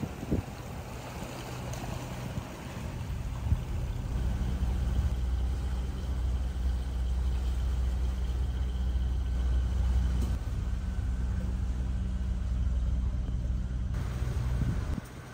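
Boat engine running at a steady low hum. Wind and water noise are heard in the first few seconds, then the engine comes up and holds steady until it cuts off suddenly near the end.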